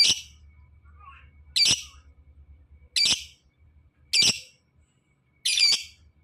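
Fighter-type lovebird giving short, harsh, high-pitched calls, five of them about one and a half seconds apart. This is the call used as a lure to prompt quiet lovebirds to sing.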